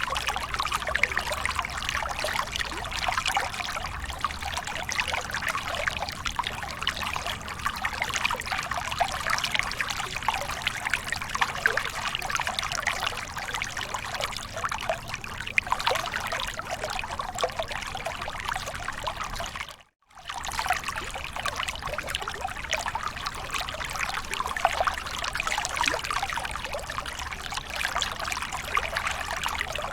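Small waterfall: water falling and splashing steadily, with a dense trickle and pour. About two-thirds of the way through, the sound cuts out for a fraction of a second and then resumes.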